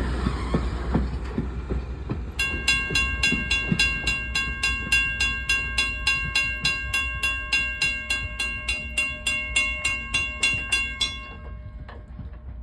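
A train rumbles and clicks over the rail joints, fading away. About two seconds in, a bell starts ringing in fast, even strokes, about three or four a second, and it stops abruptly near the end.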